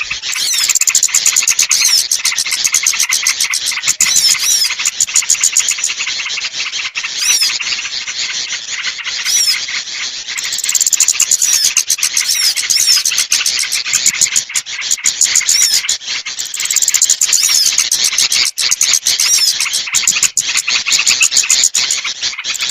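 Bird-lure recording of small songbirds: dense, rapid high chirping and twittering, with many short up-and-down whistled notes, coming in loud stretches broken by brief dips.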